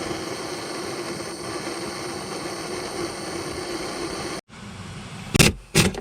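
A steady hiss with a low hum, cut off abruptly, then two short loud bursts from an air impact wrench hammering on the crankshaft pulley bolt to break it loose.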